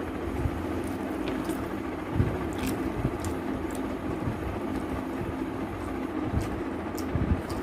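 A person eating: chewing and mouth sounds with scattered soft clicks and a low knock about two seconds in, over a steady background hum.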